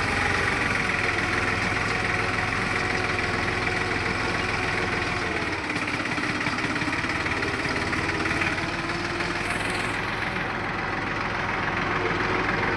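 Deutz-Fahr tractor's diesel engine running steadily, its pitch shifting slightly about halfway through.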